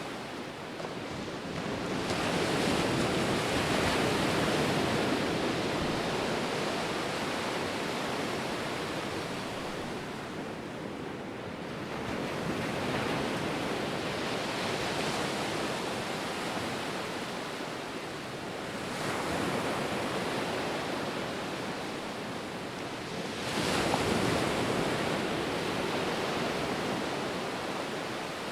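Ocean surf: waves breaking and washing ashore in slow, noisy swells that rise and fall every several seconds, with four or so surges, the loudest near the start and about three-quarters of the way through.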